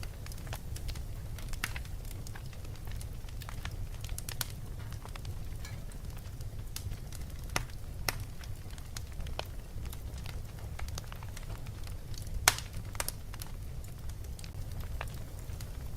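Fireplace crackling: irregular sharp pops and snaps over a steady low rumble, with the loudest pop about twelve and a half seconds in.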